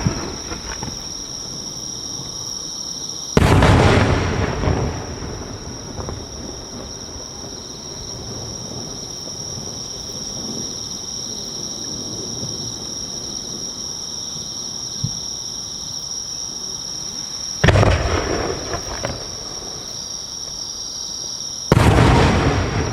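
Three booms of 15 cm (No. 5) aerial firework shells bursting overhead, each a sharp bang that rolls off in a rumbling echo for a second or more; the first about three seconds in, the other two close together near the end.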